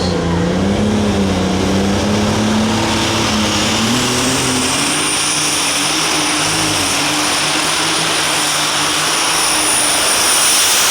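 Super stock pulling tractor's turbocharged engine running at full throttle on a pull. The engine note climbs a few seconds in while a high turbocharger whine rises and then holds steady.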